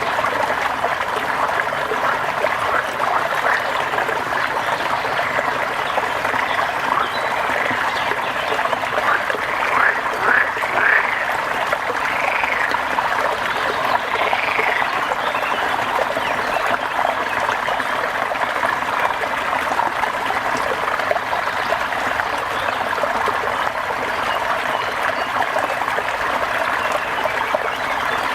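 Steady rain with frogs calling. A few short rising-and-falling calls stand out about ten to fifteen seconds in.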